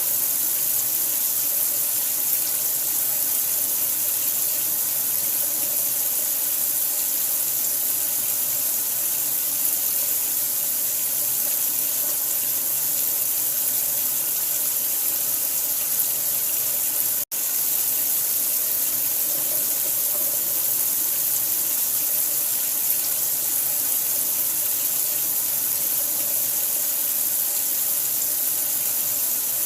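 Steady, unbroken rush of running water with a bright hiss, dropping out for an instant a little over halfway through.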